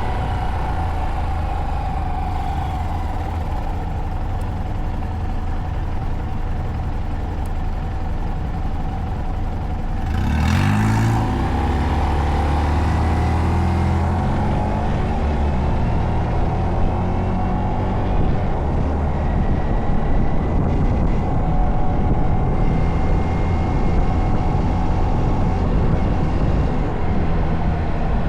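Honda Monkey's small single-cylinder engine running steadily while the bike is ridden. About ten seconds in the engine revs up and climbs in pitch as the bike accelerates, then keeps running at a higher, steady level.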